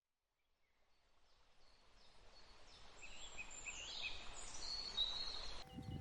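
Birds chirping over outdoor background noise, fading in gradually. Near the end it cuts abruptly to a different, lower rumbling sound.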